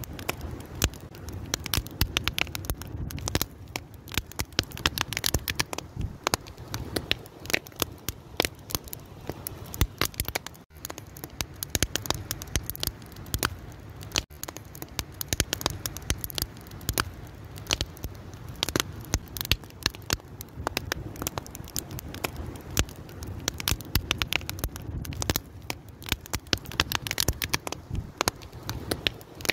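Fire crackling steadily, with many irregular sharp pops and snaps over a low, steady rumble of the flames.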